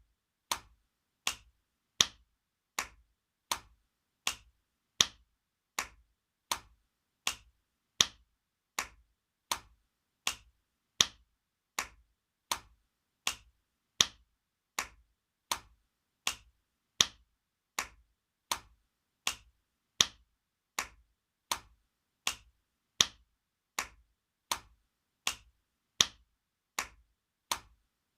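Spanking sound effect: sharp slaps of a hand on skin, repeated over and over at a bit more than one a second, some hits louder than others.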